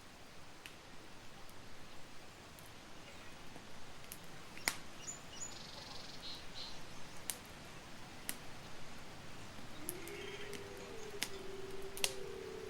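Campfire burning with a soft steady hiss and scattered sharp crackles and pops, about one every second or two. Faint high chirps come in briefly mid-way, and a low steady wavering tone starts near the end.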